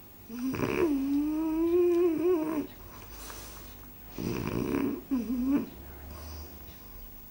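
Dog snoring in its sleep. The first snore lasts about two seconds and has a steady, pitched, droning tone. A second, shorter and rougher snore comes about four seconds in and ends in a brief pitched note.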